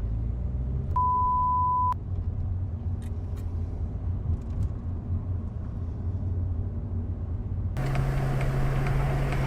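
Steady low rumble of a car driving, with one electronic beep lasting about a second, about a second in. Near the end the sound cuts abruptly to another recording with a steady low hum and louder traffic noise.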